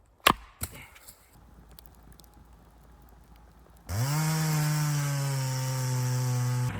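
Two sharp knocks, then a chainsaw engine starting up about four seconds in, its pitch climbing quickly and then holding steady, cut off abruptly near the end.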